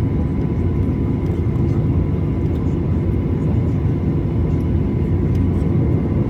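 Steady cabin noise of a Boeing 737-800 taxiing with its CFM56-7B engines at idle: a constant low rumble with a thin, steady whine over it.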